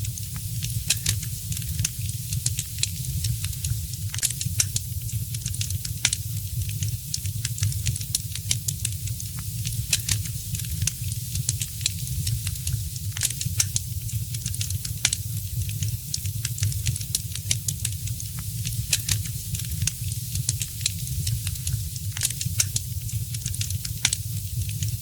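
Fire in a fireplace crackling: frequent irregular sharp pops and snaps over a steady low rumble of the flames.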